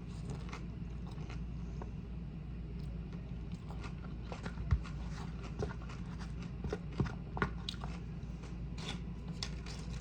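Close-miked chewing and eating sounds, with a few short sharp clicks scattered through, the sharpest about halfway in.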